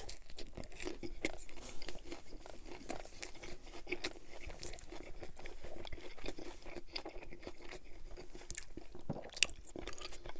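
Close-miked chewing and biting of a chicken Caesar wrap with lettuce: irregular small crunches and wet mouth clicks.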